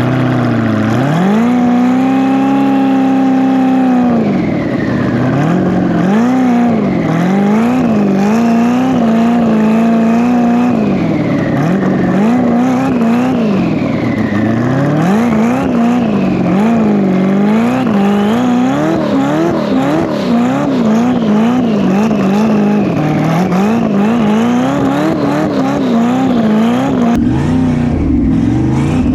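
Twin-turbo LS V8 in a BMW E36 drag car revving hard, held high for about two seconds near the start, then climbing and dropping rapidly again and again as the throttle is worked.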